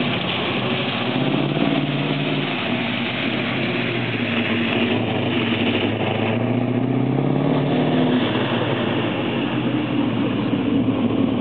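Car engine running continuously, its pitch slowly drifting up and down with the throttle, with a steady rise in the middle.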